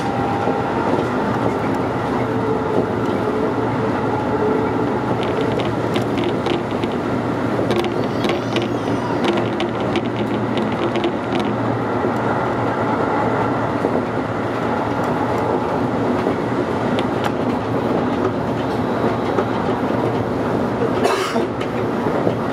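Toei 5500 series electric train running at speed, heard from inside the front cab: a steady rumble of wheels on rail with motor noise. A run of sharp clicks comes in the middle, and a brief hiss sounds near the end.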